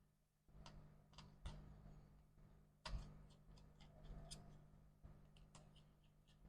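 Faint, irregular small clicks and ticks of a Torx T5 screwdriver working the battery screws out of a MacBook Air, with a sharper knock about three seconds in.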